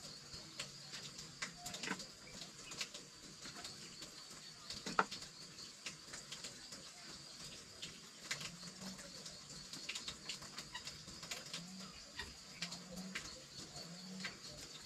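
Scattered light clicks and taps over a steady high hum, with a few short, low cooing calls in the second half.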